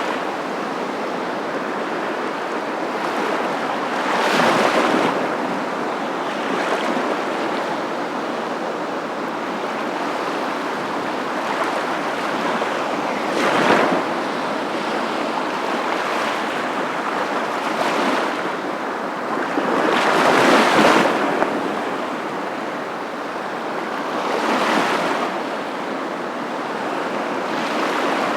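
Surf: a continuous rushing of waves that swells louder every several seconds as each wave washes in.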